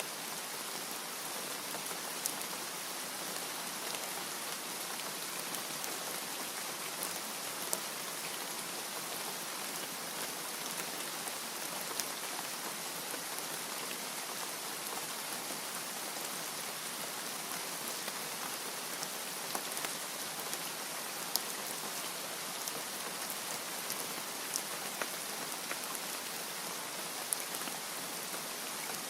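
Steady rain falling on a hard surface, an even hiss with scattered sharper drop ticks.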